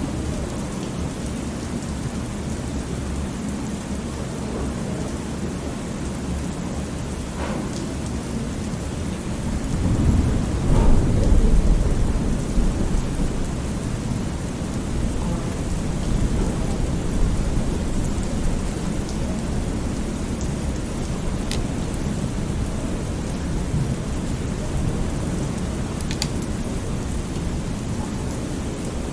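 Thunderstorm ambience: steady heavy rain with a deep roll of thunder that swells about a third of the way in and slowly fades back into the rain.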